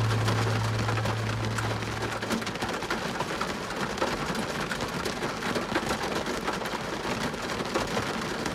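Rain falling on a car's windshield and roof, heard from inside the car as a dense, even patter of drop hits. A low steady hum fades out about two seconds in.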